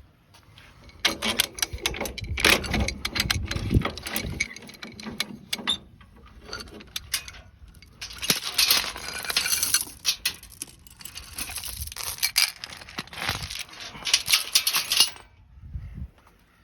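Metal objects clattering and clinking as they are handled, in two long bursts of rapid knocks and rattles.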